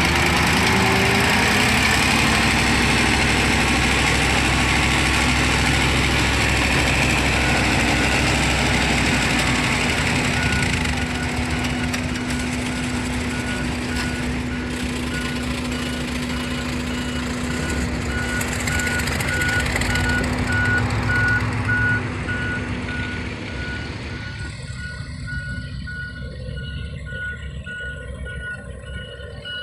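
Heavy dump truck's diesel engine running loudly with a reversing alarm beeping at an even pace from about a third of the way in. The engine noise drops away near the end, leaving the beeping clearer.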